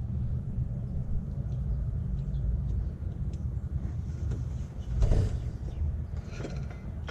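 Low, steady rumble with faint scattered clicks of hand tools on metal, and a louder knock about five seconds in.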